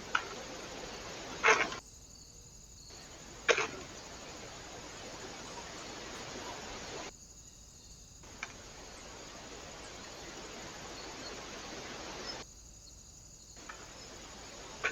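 Steady hiss of outdoor background noise from a trail camera's microphone, dropping out three times for about a second where clips are joined, with a handful of sharp clicks or knocks, the loudest near the second drop-out.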